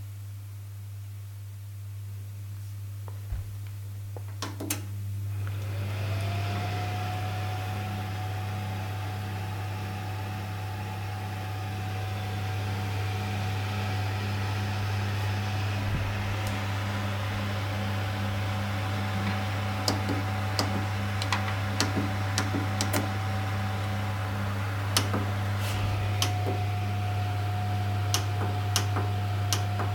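Electric fireplace running with a steady low electrical hum. About five seconds in it clicks and its fan heater spins up to a steady whine over rushing air. In the second half, irregular sharp ticks sound over it.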